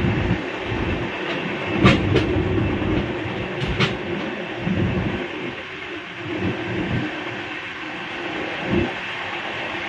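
Express train running at speed, heard from on board: a steady rumble of the coach's wheels on the rails, with a few sharp clacks about two seconds in and again near four seconds.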